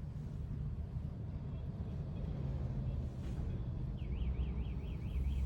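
Steady low rumble of street traffic heard from inside a car. About four seconds in, an electronic alarm tone starts warbling, sweeping up and down about four times a second.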